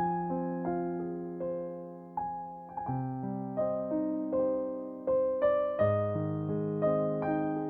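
Soft background piano music: slow notes and chords struck and left to fade.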